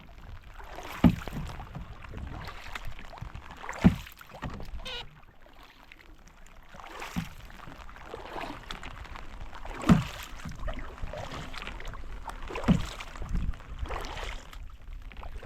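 Kayak paddling: a sharp paddle stroke hitting about every three seconds, with softer water sounds between.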